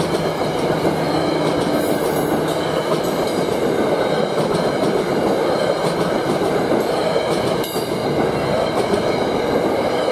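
NJ Transit commuter train's passenger coaches passing close at speed: a steady loud rush of wheels on the rails, with a few sharp clacks.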